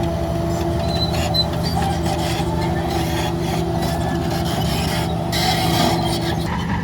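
Heavy diesel earthmoving machinery running steadily, with irregular metallic rattling and scraping on top that is busiest about five to six seconds in. A steady whine over the engine stops near the end.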